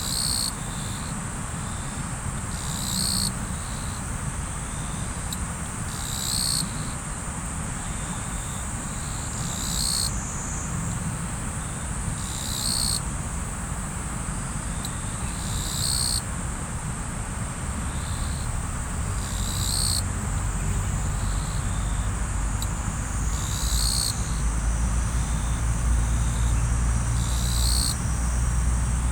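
Riverside ambience: flowing river water under a steady high insect drone, with a short call that repeats about every three seconds. A low rumble swells in the last third.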